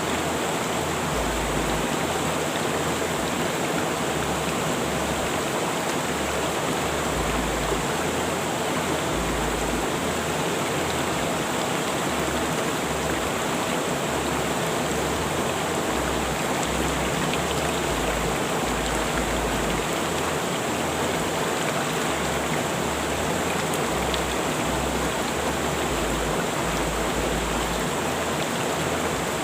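A river rushing over rocks, a steady, even roar of flowing water.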